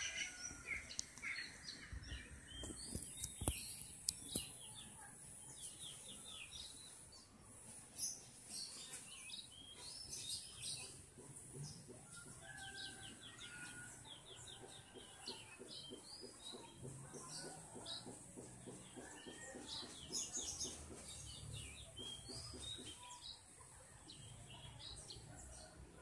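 Several small birds chirping and twittering in short, repeated calls and quick trills, with a steady high-pitched tone underneath.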